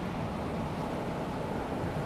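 Calm sea washing gently onto a sandy beach: a steady, low hiss and rumble of small waves with no distinct breaking crash.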